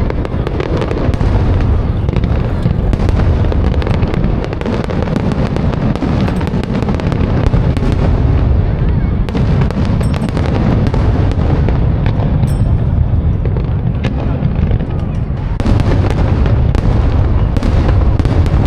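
Aerial fireworks display: a continuous barrage of deep booms overlapping one another, with many sharp crackles and pops from the bursting shells.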